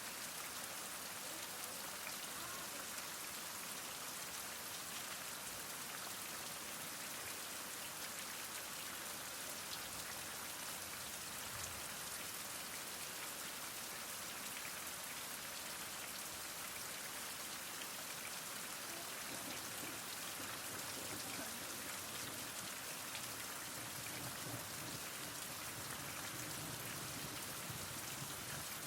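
Heavy rain falling steadily, a dense, even hiss of countless drops that never lets up.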